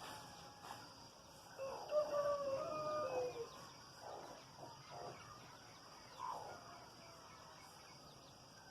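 A rooster crows once, a long call of about two seconds that drops in pitch at the end, followed by a few shorter, fainter calls.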